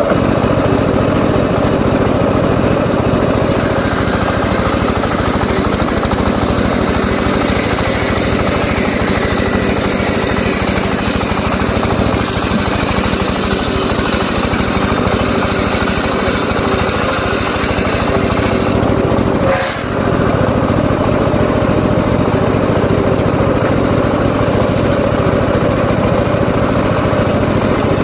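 Homemade circular saw running steadily, with one short dip in level about two-thirds of the way through.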